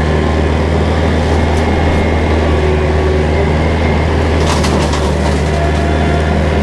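Kubota tractor engine running steadily while bush hogging with a rotary cutter, with a brief burst of crackling about four and a half seconds in.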